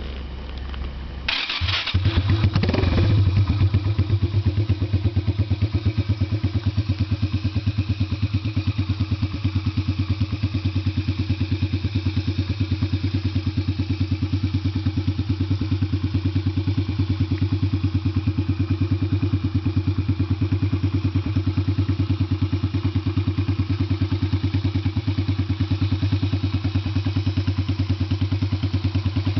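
Yamaha Virago 250's air-cooled V-twin, through Easy Riders drag pipes, starting about a second and a half in with a short clatter, then running at a steady idle with an even, rapid beat.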